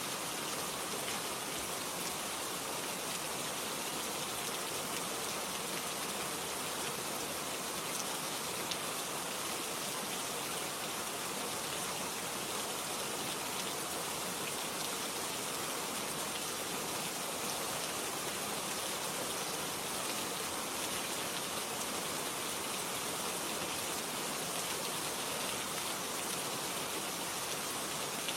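Steady rain falling, an even hiss of drops with faint patter.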